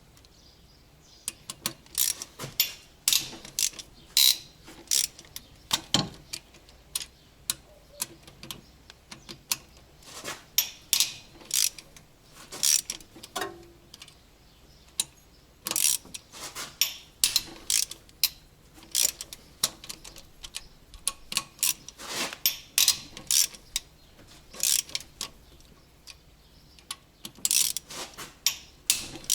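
Ratchet wrench clicking in short, irregular runs, mixed with sharp metallic clinks of hand tools.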